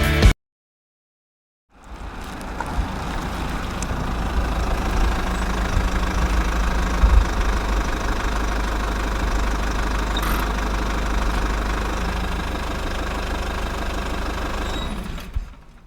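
Isuzu C240 four-cylinder diesel engine idling steadily. It comes in about two seconds in and fades out near the end.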